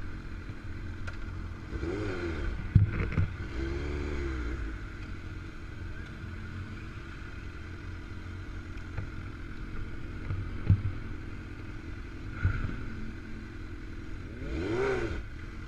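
Motor vehicle engines running with a steady low rumble. The revs rise and fall a few times, and there are a few sharp knocks.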